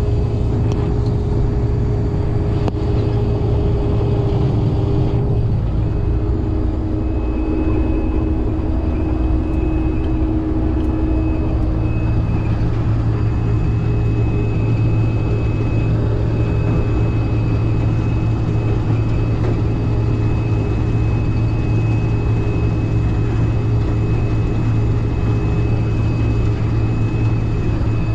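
Combine harvester running steadily while combining soybeans: a loud, even engine hum with a thin high whine above it. The pitch shifts slightly about five seconds in.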